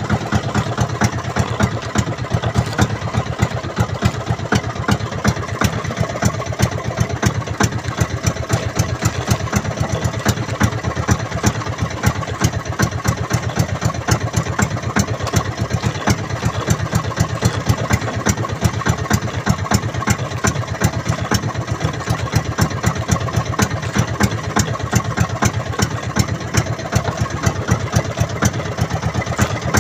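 Boat engine running steadily at idle, with a fast, even knocking rhythm that does not change.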